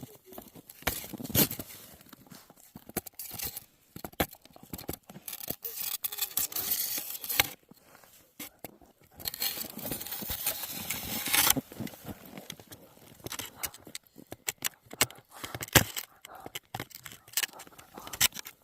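Big dog chewing on a moose treat: irregular crunches, cracks and scrapes, in busier runs a few seconds long.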